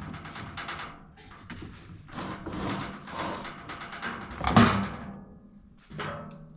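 Workshop handling noise: irregular knocks, clunks and scrapes of tools and mower parts being moved about, with one loud knock about four and a half seconds in.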